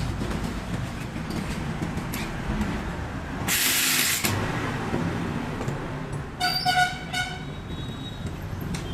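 Traffic noise with a loud burst of hiss about three and a half seconds in, then a vehicle horn honking in a few short toots near the end.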